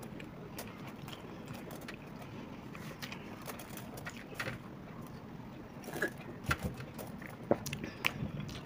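People chewing and biting into fried snacks (pakoras and samosas) with close-up mouth sounds and scattered short, crisp crunches, which come more often in the second half.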